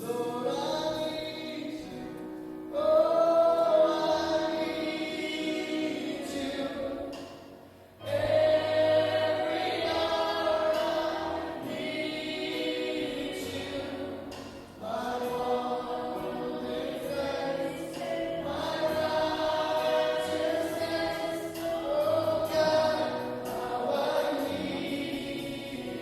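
A choir or congregation singing a gospel worship song in long held phrases, with short breaks between the lines.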